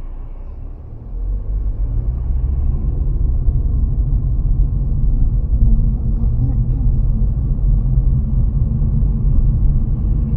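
Car's road and engine noise heard from inside the cabin while driving: a low rumble that swells about a second in and then holds steady.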